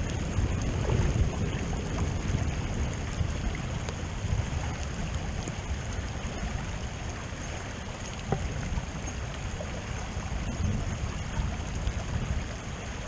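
A rain-swollen creek rushing steadily, with a few faint knocks.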